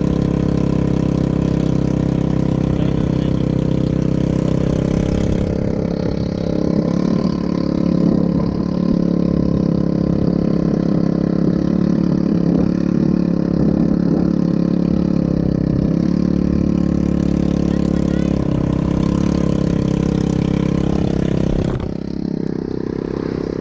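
ATV engine running steadily under way, its note shifting a little around seven to nine seconds in, then dropping in level about twenty-two seconds in.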